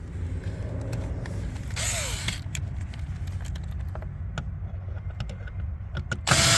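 Small clicks of plastic trim being handled over a steady low hum, then near the end a loud one-second burst of a power screwdriver driving in the trim panel's single screw.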